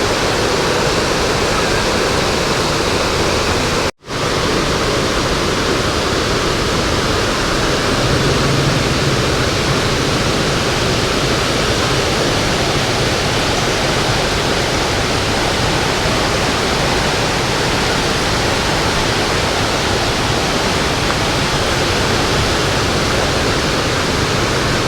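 Steady rush of fast-flowing water from a stream swollen by rainy-season rain, an even noise with no break in its texture. The sound drops out for a split second about four seconds in, then carries on the same.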